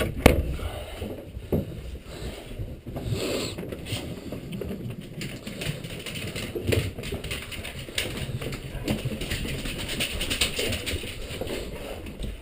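Handling noise from a blanket wrapped around a caught bird: continuous fabric rustling with scattered small clicks and knocks, one sharper knock right at the start.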